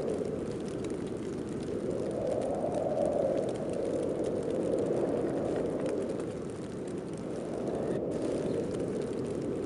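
Wind of a heavy snowstorm blowing as a deep steady rush, swelling and easing every few seconds.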